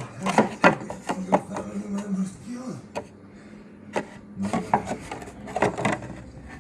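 Knocks, rubbing and scraping of hand work on a plywood RC boat hull, with a steady low hum for the first couple of seconds.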